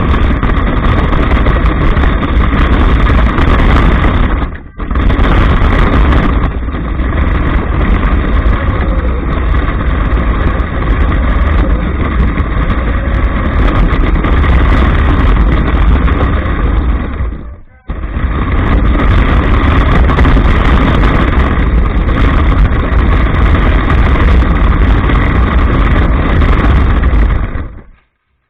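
Dense, loud rumble and rattle picked up by an action camera riding on an RC monster truck as it drives: chassis vibration and tyre and wind noise, with a steady motor whine above it. The noise drops out briefly about five seconds in and again around eighteen seconds, and stops near the end.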